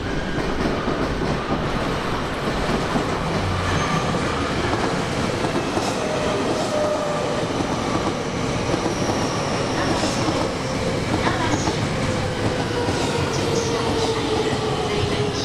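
Commuter electric train running on rails, wheels clattering, with a faint whine that falls slowly in pitch through the second half.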